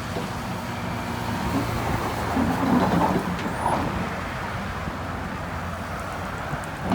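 Diesel engine of heavy earthmoving machinery running steadily, with a louder, rougher stretch from about two and a half to four seconds in.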